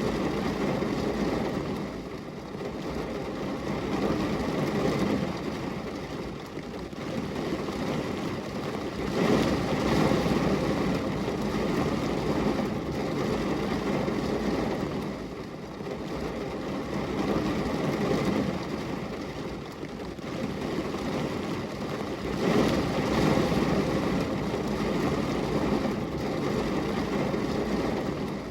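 Rain on a glass window: a steady, low wash of noise that swells and eases every few seconds.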